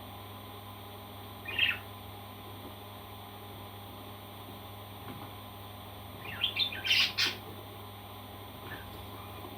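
A parrot squawking in short calls: one brief call about a second and a half in, then a quick run of several louder, harsher squawks about six to seven seconds in, over a steady background hum.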